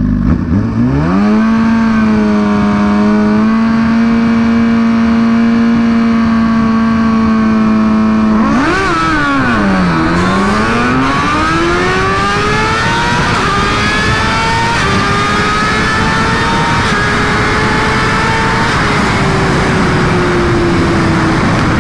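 Suzuki GSX-R1000's inline-four engine held at steady high revs on the start line, then a drag-strip launch. The revs dip as the clutch bites about nine seconds in, then climb through several upshifts while wind rush builds, and the revs ease off near the end.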